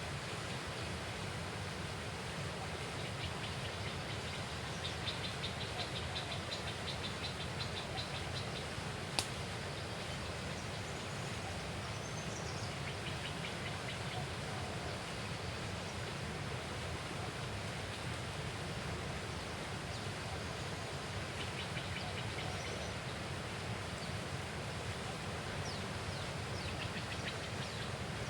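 Outdoor riverside ambience: a steady hiss of background noise, with rapid pulsing high trills twice and a few faint chirps. There is one sharp click about nine seconds in.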